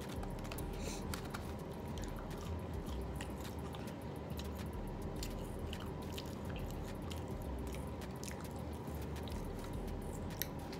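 Close-up chewing and biting on fried chicken wings: many small crunches and wet mouth clicks. A faint steady electrical hum runs underneath.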